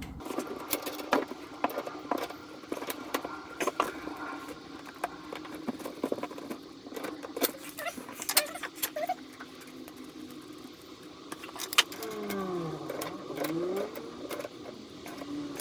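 Tools and small fittings being handled and put away under a kitchen sink: scattered light clicks, clinks and knocks, with a few short squeaks about twelve to thirteen seconds in.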